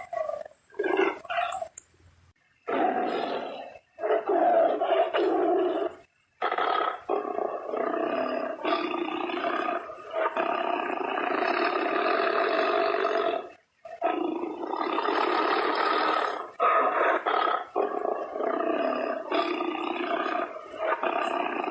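Tiger roaring repeatedly: a few short calls, then long drawn-out roars several seconds each, separated by brief pauses.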